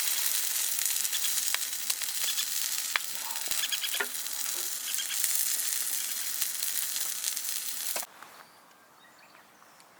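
Skewered meat sizzling over a campfire: a steady hiss with scattered pops. It cuts off suddenly about eight seconds in.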